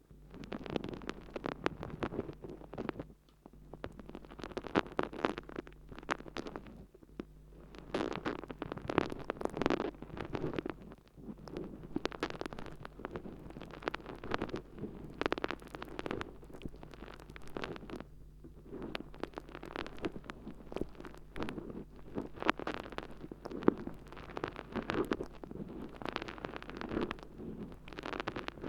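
Water-soaked sponge with many holes worked as an ASMR earpick inside an ear: irregular wet squishing and crackling, with brief pauses.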